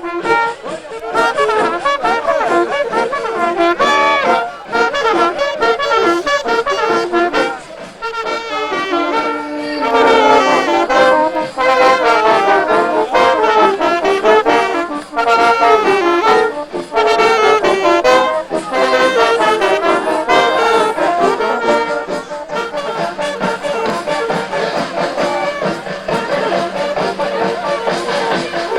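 Music led by brass instruments, trombones and trumpets, playing a tune.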